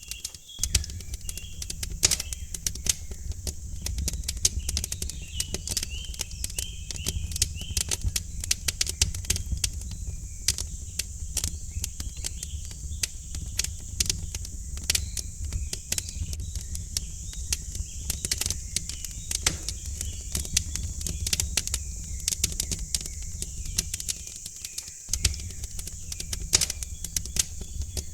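Wood fire crackling in a fireplace, with frequent sharp pops and snaps over a low steady rumble. Faint bird chirps come through now and then.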